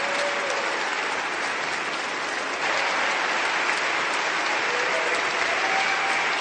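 Crowd applauding: dense, even clapping that steps up in loudness about two and a half seconds in.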